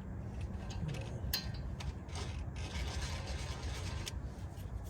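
Intermittent metal clicks and scraping from hand tools working a lug nut on a repaired wheel stud, with the nut still binding on the stud.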